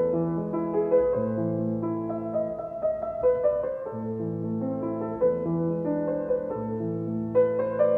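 Background piano music: a calm melody over long held bass notes.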